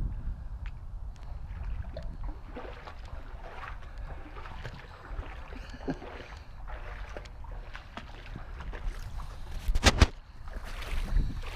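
Water sloshing and splashing around people wading through shallow floodwater, with wind rumbling on the microphone. A single sharp thump about ten seconds in.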